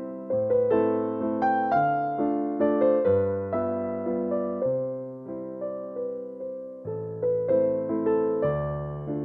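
Background music: a gentle, slow piano melody, single notes struck roughly every half second over sustained bass notes.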